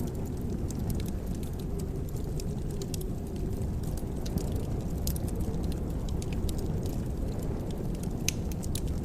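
Wood fire crackling in a fireplace: scattered sharp snaps and pops over a steady low rumble.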